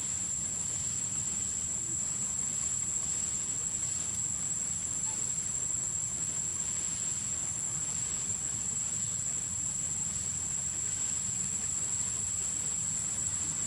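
Steady insect chorus: a constant high-pitched drone that never breaks, over a low, even rumble.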